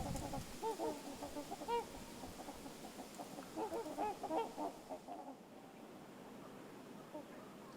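A flock of trumpeter swans calling: many short, overlapping notes in two bursts, one about a second in and another around four seconds in, then dying away.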